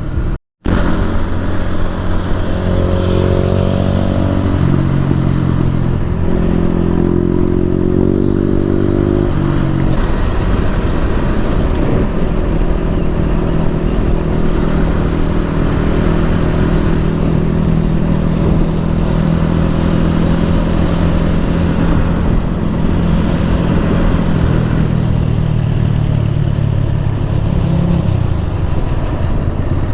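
Motorcycle engine running under way. Its pitch rises and steps through gear changes over the first ten seconds or so, then holds fairly steady at cruising speed.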